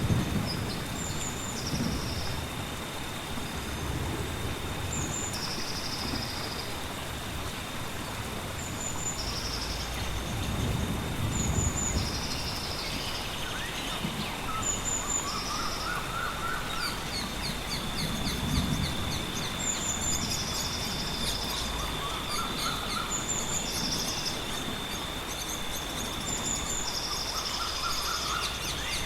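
Songbirds singing over steady gentle rain: short high chirps repeat every couple of seconds, with a lower warbled phrase three times and a steady high tone underneath. Low rumbles of distant thunder come at the start and twice more.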